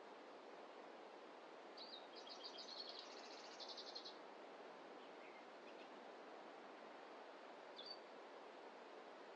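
Faint steady forest ambience with a small songbird's rapid high trill lasting about two seconds, starting about two seconds in, then a single short high chirp near the end.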